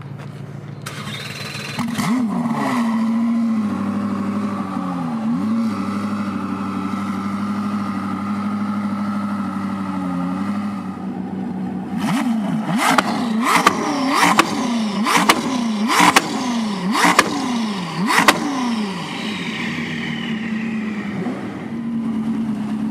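Koenigsegg CC850's twin-turbo V8 starting up and settling to a steady idle. About halfway through it is blipped hard about eight times in quick succession, with a sharp crack at each rev, then it drops back to idle.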